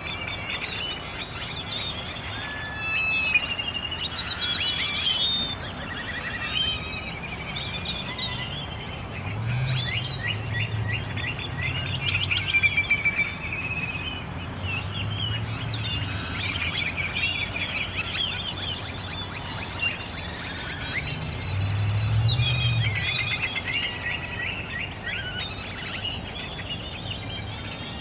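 A large roosting flock of starlings chattering in the trees: dense, constant overlapping chirps, whistles and squeaky calls. A low rumble swells underneath about ten seconds in and again a little past twenty seconds.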